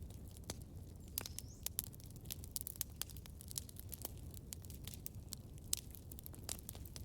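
Campfire burning with a low steady rumble and irregular sharp crackles and pops of burning wood, with a faint brief high whistle just over a second in.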